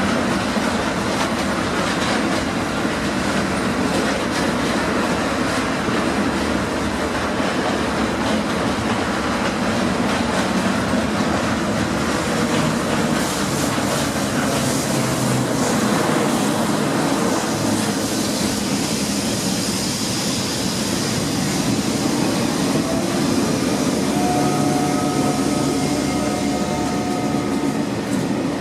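A train running past on the railway line with a loud, steady rolling noise of wheels on rail. Near the end a faint high-pitched whine comes in.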